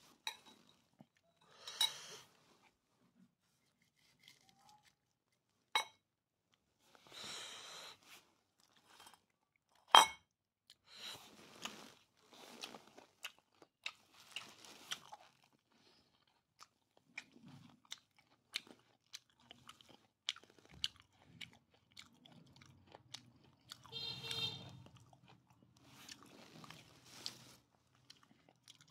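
Close-up chewing and crunching of food in scattered bursts, with sharp clicks of the meal being handled; a single sharp knock about ten seconds in is the loudest sound.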